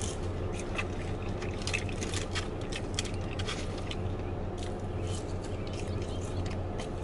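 Close-up eating sounds: chewing on seasoned fries with many small clicks and crackles, mixed with light rustling of a paper food wrapper, over a steady low hum.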